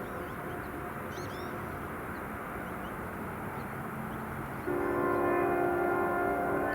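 A diesel freight locomotive, Norfolk Southern SD40E 6339, passing with a steady rumble. About two-thirds of the way in, its multi-tone air horn starts a loud, sustained chord.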